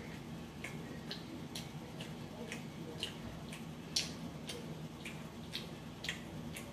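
Close-miked chewing of beef chunks, rice and greens, with wet mouth clicks about twice a second and the loudest click about four seconds in, over a low steady hum.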